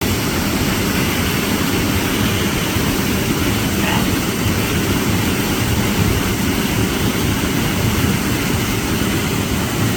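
Waterfall roaring, a loud, steady rush of falling water.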